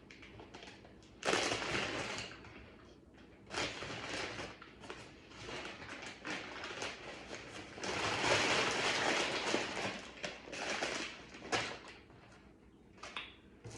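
Crinkling and rustling of food packaging being handled, in irregular bursts, the longest and loudest about eight seconds in.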